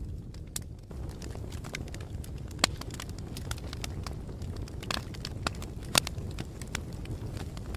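Wood fire crackling: a steady low rumble of burning with irregular sharp pops and snaps, a few louder ones about a third of the way in and again past the middle.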